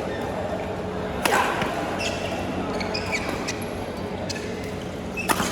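Badminton play in a sports hall: a racket strikes the shuttlecock sharply about a second in and again near the end, with short squeaks of court shoes between, over a steady low hum.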